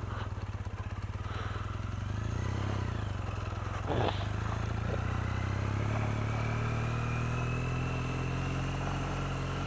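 2008 Triumph Bonneville's parallel-twin engine running under way at fairly steady revs, with a single short knock about four seconds in and a slow rise in pitch over the last few seconds.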